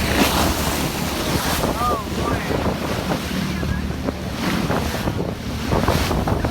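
Ocean waves washing in, with wind buffeting the microphone as a steady low rumble. A brief curved call rises and falls about two seconds in.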